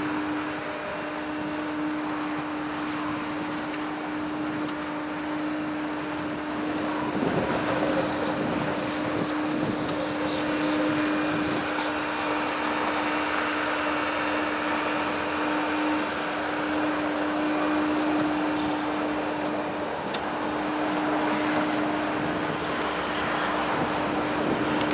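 Bucket truck's engine running steadily with the PTO engaged, driving the boom's hydraulic pump, with a steady hum, and a few faint clicks about seven and twenty seconds in.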